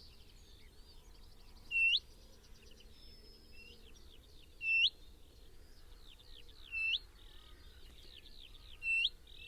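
Birds singing: one bird gives a short, loud, sharply hooked call four times, every two to three seconds, over softer chirps and trills from other birds.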